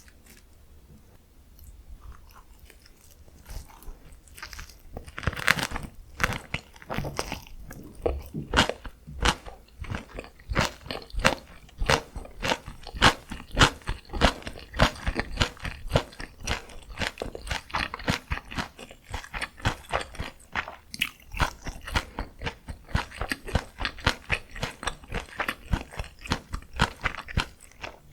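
Close-miked eating: biting into and chewing food with rapid, dense crunching that starts a few seconds in after a quiet opening.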